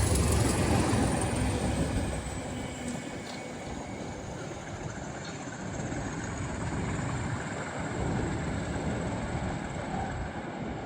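Pair of Class 20 diesel locomotives running in multiple, hauling a train past on the line, the steady rumble and rail noise slowly fading over the first few seconds as it draws away, then holding at a lower level.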